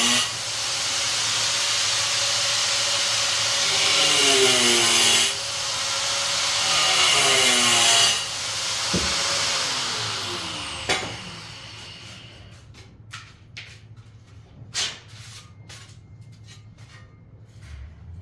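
Handheld power tool running in several runs, its motor pitch dipping and recovering as it bears into the work, then winding down about eleven seconds in. After it stops come scattered sharp knocks and taps.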